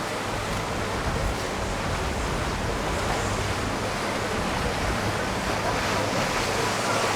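Steady rushing of wind and water, with gusts of wind buffeting the microphone in a low rumble.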